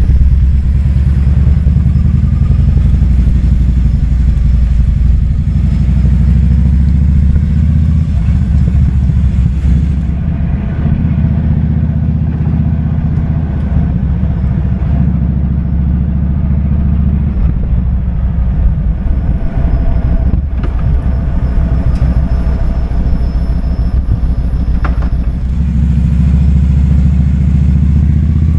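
Kawasaki Vulcan 2000's big V-twin engine running under way, a loud low exhaust note that eases off about ten seconds in and picks up again near the end.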